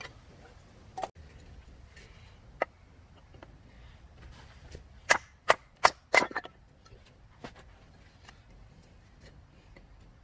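Sharp knocks or clicks, a few scattered and then four loud ones in quick succession about halfway through.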